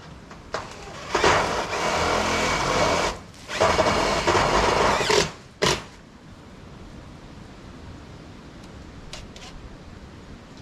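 Electric power tool motor running in two bursts of about two seconds each, then a short third burst.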